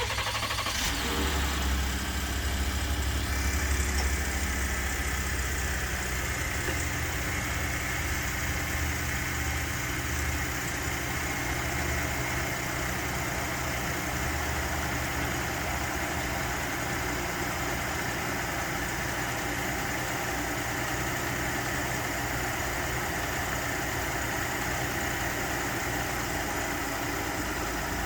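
Ford 3.5 EcoBoost twin-turbo V6 in a 2019 F-150 idling just after a cold start. It is louder for the first few seconds and then settles to a steady idle, with the rattle from the cam phasers on a cold start.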